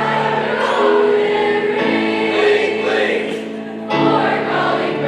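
A high school choir singing a sustained, held-note Christmas song, with the chord changing every second or so and a new phrase entering about four seconds in.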